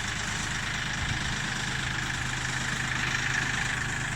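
Kioti CK3510 compact tractor's three-cylinder diesel engine running steadily at a low idle-like speed.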